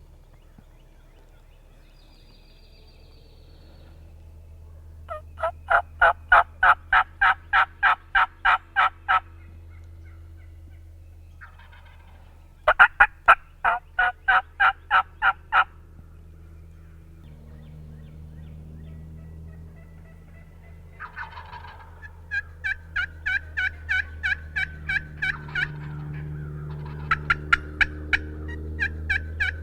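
Turkey yelping in long runs of evenly spaced, raspy notes, about three a second: one run about five seconds in, another a little past twelve seconds, and a longer one from about twenty-two seconds on. Under the calls is a steady low hum.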